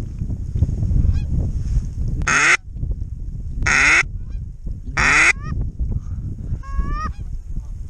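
Geese honking: three loud honks about a second and a half apart in the middle, with fainter calls from the flock around them. A steady low rumble of wind on the microphone runs underneath.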